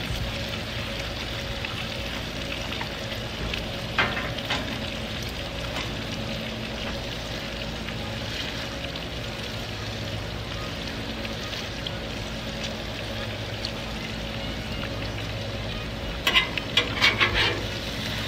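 Bacon and smashed beef patties sizzling steadily on a Blackstone flat-top gas griddle. A metal utensil clicks once about four seconds in, and a quick run of metal clacks and scrapes on the griddle comes near the end.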